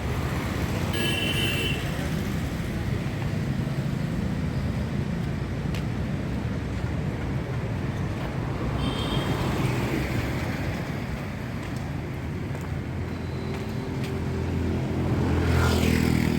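Busy road traffic running past steadily. Short high beeps come about a second in and again midway, and a vehicle passes close near the end, the loudest moment.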